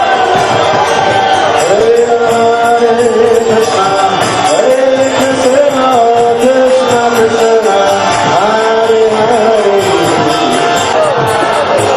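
Devotional chanting sung by voices to hand drum and jingling cymbal percussion that keeps a steady beat.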